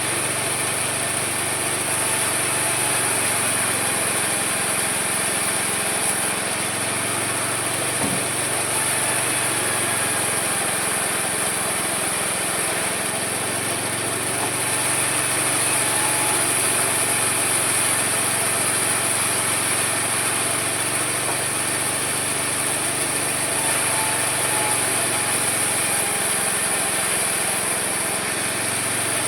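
Homemade mini sawmill running steadily while sawing wood, a constant high whine over a lower machine drone that shifts slightly in pitch now and then.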